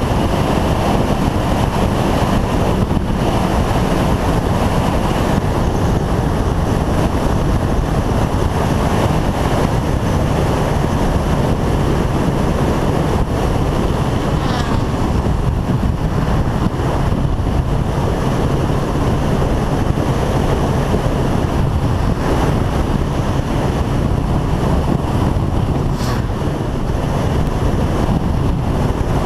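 Motorcycle engine running at a steady cruising speed under loud wind noise on the microphone.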